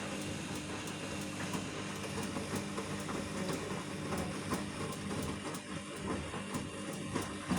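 Vestel CM8710 8 kg washing machine in its final rinse: a steady motor hum as the drum turns, with many small irregular clicks and knocks.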